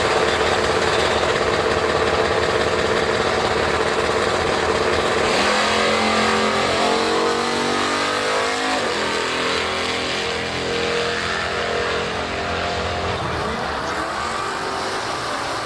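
Drag-racing cars at full throttle down the strip. A dense roar gives way about five seconds in to engine pitch climbing, dropping at gear changes and climbing again. The sound fades slowly toward the end.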